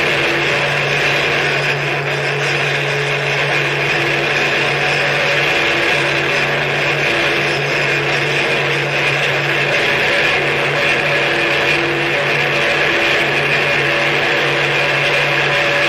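Harsh noise music: a dense, unbroken wall of distorted noise with a steady low drone and a held high whine, changing very little.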